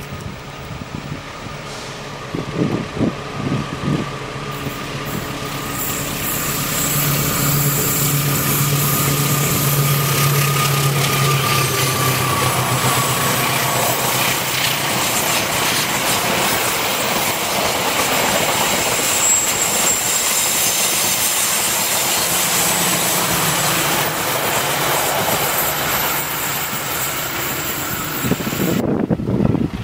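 Diesel-hauled passenger train passing on a curve. A low engine hum builds as it approaches, then the coaches' wheels run over the rails in a long, steady rush, and the sound cuts off near the end.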